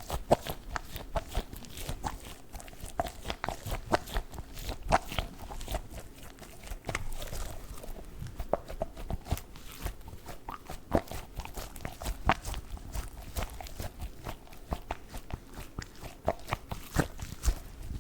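A squishy dog stress toy squeezed and pressed by fingers close to the microphone, giving an irregular run of soft crackles and sticky clicks.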